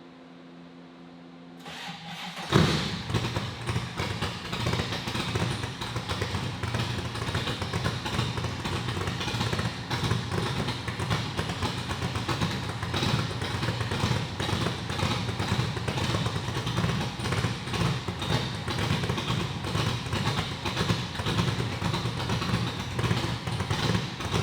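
A faint steady hum, then the 1965 Shelby Cobra's V8 cranks briefly and fires on a cold start with one loud bang about two and a half seconds in. It then settles into a loud, uneven cold idle.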